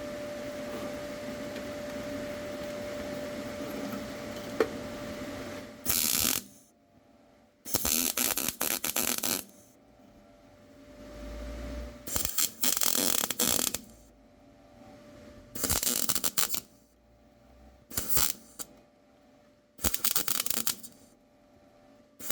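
A steady hum for about six seconds. Then a MIG welder's arc crackles in about six short bursts, each lasting from a fraction of a second to nearly two seconds, with pauses between them, as stitch welds are laid on the car's sill.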